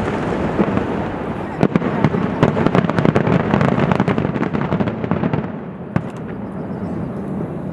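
Giant aerial firework shell bursting: a sustained rumble and echo with a dense run of crackling pops from about one and a half to five and a half seconds in, then fading.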